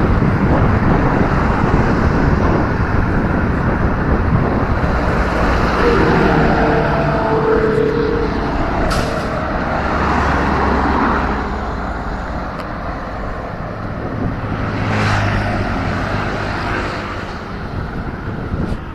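Wind rushing over the microphone of a moving bicycle, with road traffic around it. Motor vehicles pass, one with a pitched engine note about a third of the way in and another swelling past later on.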